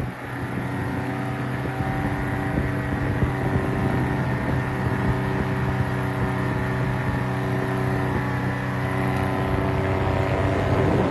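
Powered parachute's engine and propeller running steadily in flight at a constant pitch, with wind rumbling on the microphone.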